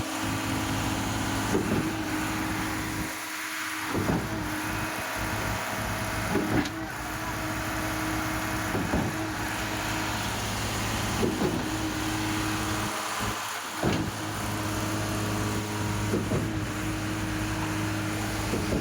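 Concrete pump's diesel engine running steadily, with a knock about every two and a half seconds as the pump changes stroke.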